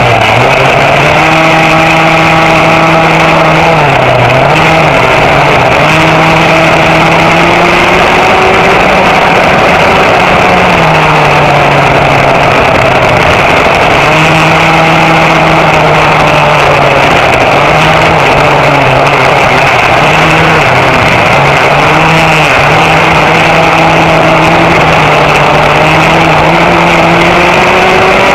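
Vintage 6.1 cubic inch rear-mounted kart engine running hard, heard onboard. Its pitch holds for stretches and dips and climbs again several times as the throttle is lifted and reopened.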